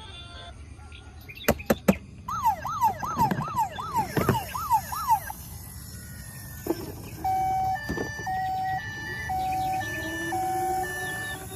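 Electronic toy siren: a few sharp clicks, then a fast rising-and-falling wail for about three seconds, then a two-note hi-lo siren pattern from about halfway through.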